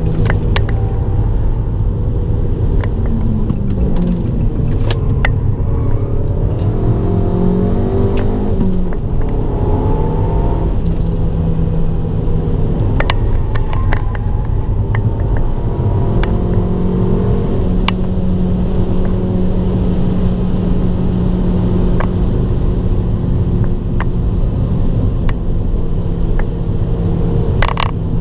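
Abarth 595 Turismo's turbocharged 1.4-litre four-cylinder engine under load on track. Its note climbs and drops through gear changes in the first half, then holds steady at one pitch. Scattered sharp clicks run through it.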